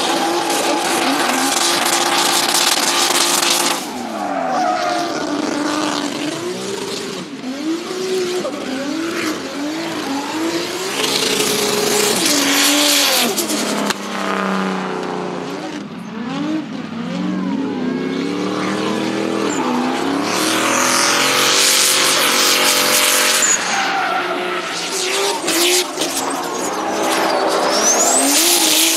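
Turbocharged BMW drift car engines revving hard, the pitch climbing and dropping again and again as the drivers work the throttle, with long bursts of tyre squeal as the cars slide.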